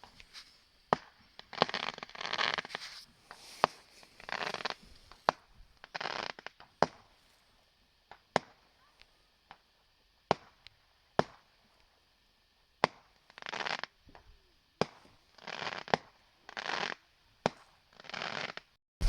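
Fireworks going off: a string of sharp bangs mixed with crackling bursts that last about half a second to a second each, thinning out to a few lone bangs in the middle before the crackling picks up again.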